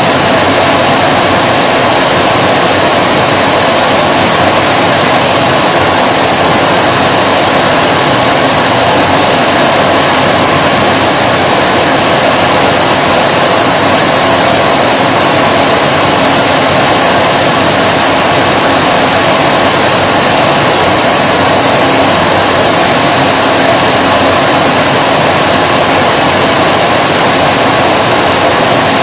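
Vacuum cleaner running steadily: a loud, even whooshing hum of motor and airflow that does not change.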